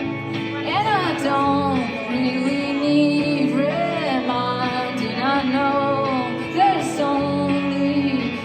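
Live band music: a song with guitar and sung vocals, carrying on steadily at full level.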